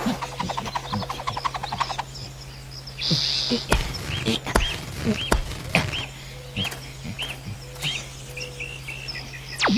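Cartoon sound effects: a fast ratcheting run of ticks, a few sharp thumps, then a string of short repeated chirping whistles like bird calls, about two a second.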